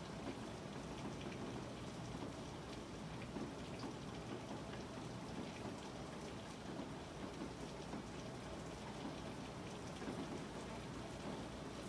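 Steady rain falling: an even wash of noise with scattered taps of single drops.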